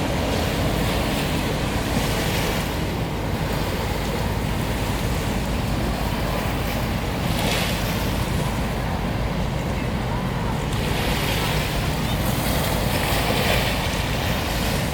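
Waves washing steadily, with wind buffeting the microphone as a constant low rumble.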